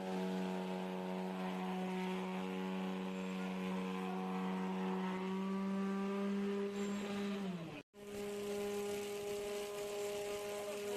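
A machine running with a steady, droning hum. Near the end it sags in pitch and cuts out for an instant, then comes back at the same pitch.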